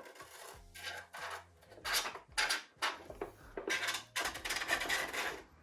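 Wing spar and wing being worked into the fuselage slots of a radio-controlled model plane: a series of short rubbing and scraping noises of parts sliding and catching against each other.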